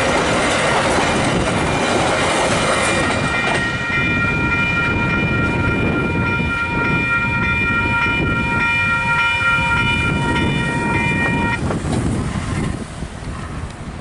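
Train hauled by a DFB-class diesel locomotive passing close by, wheels running over the rails. From about three seconds in, a steady high-pitched sound of several tones holds for about eight seconds and then stops. The train noise fades near the end.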